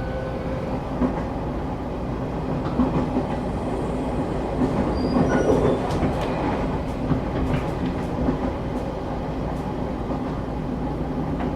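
Running noise inside a moving passenger train: a steady rumble of the wheels on the rails, with a faint steady hum and occasional light clicks.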